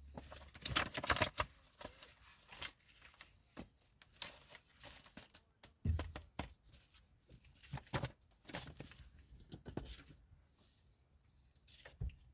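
Deck of cards being shuffled and handled, with irregular soft flicks and paper rustles.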